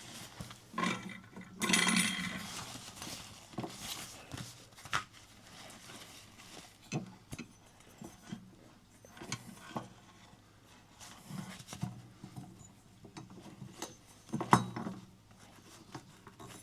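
Metal parts of a portable camping stove being handled and folded: scattered clicks, clinks and light knocks as its legs and pot supports are pushed together, with a longer scraping rustle about a second or two in.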